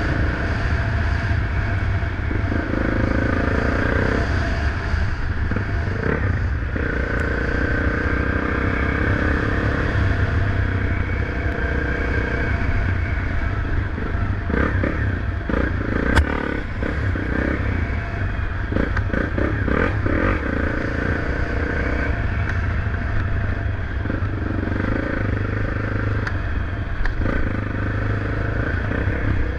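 Motorcycle engine running steadily while being ridden, with scattered knocks and rattles and one sharp knock about halfway through.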